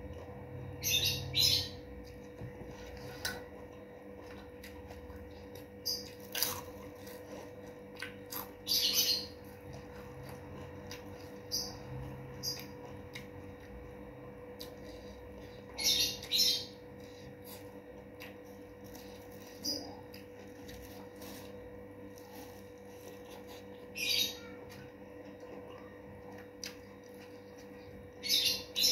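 Close-up eating sounds: short bursts of crunching from crisp fried food being bitten and chewed, about nine times, a few seconds apart, over a steady electrical hum.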